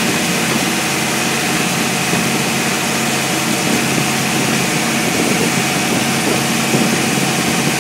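New Ford 351 V8 running steadily on an engine dyno during its break-in run.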